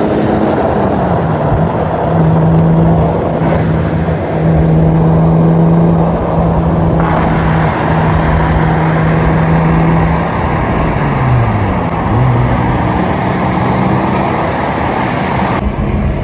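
Loud car engine running at a steady pitch. Its pitch drops about a second in and again around twelve seconds in, then picks back up.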